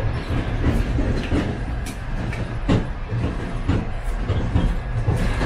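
Passenger railway carriage running along the track: a steady low rumble from the wheels and running gear, with several sharp, irregular clicks and knocks.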